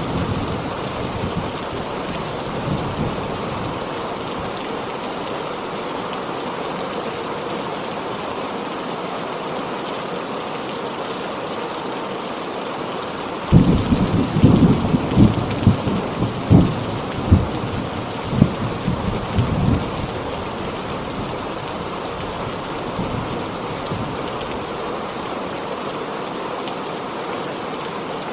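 Heavy rain falling steadily. About halfway through, a sudden clap of thunder breaks in and rumbles in surges for about six seconds before fading back into the rain.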